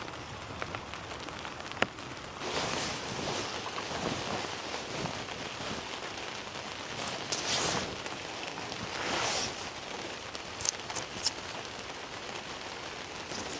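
Steady rain falling, an even hiss that swells louder several times, with a sharp click about two seconds in and a few small ticks later on.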